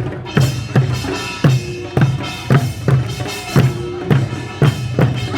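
Korean folk music from a folk sound-drama performance: drums strike a steady beat of about two strokes a second, with ringing pitched tones over each stroke.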